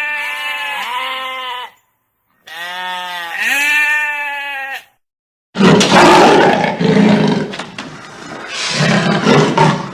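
Animal calls: two bleats, each broken into short falling notes, with a pause between them, then a loud, rough call with no clear pitch from about halfway through.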